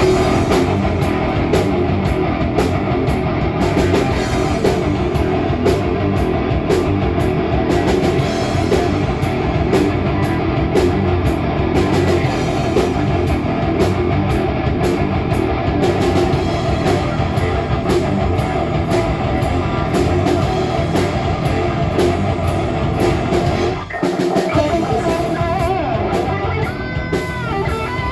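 Live rock band playing loud heavy rock: electric guitars over a drum kit. The music drops out for a moment about three-quarters of the way through, then comes straight back in.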